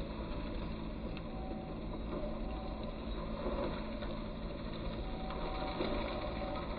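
Skid steer engine running steadily under a constant load, a low, even drone with no change in speed.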